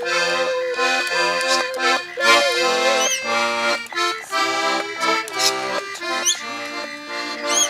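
Accordion playing a tune over steady chords, with a few short, high bird calls from rainbow lorikeets breaking in now and then.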